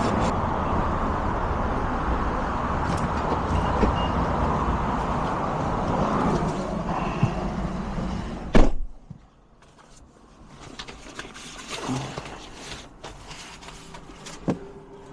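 Steady road and running noise inside a moving car, ended by one sharp thump a little past halfway, after which it goes much quieter with only faint knocks and rustles.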